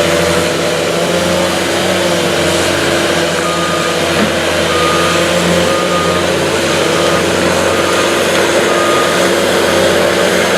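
Steady motor-vehicle running noise: road and engine hum that wavers slightly in pitch, with a short faint beep repeating about once a second through the middle.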